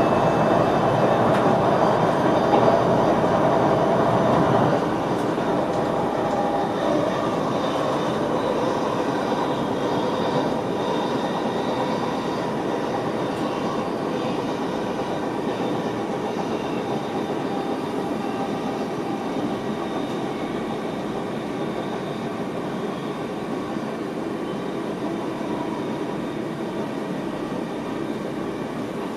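Running noise of an NS VIRM double-deck electric train heard inside the driver's cab. It is a little louder for the first five seconds, then slowly gets quieter.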